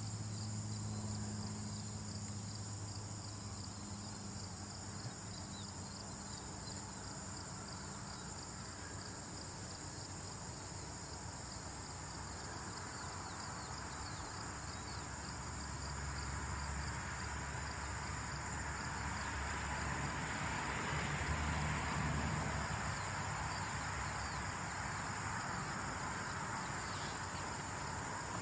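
Ambient insect sound: a steady, high-pitched insect trill with a low hum beneath it. About two-thirds of the way through, a broad rushing noise swells and then eases off.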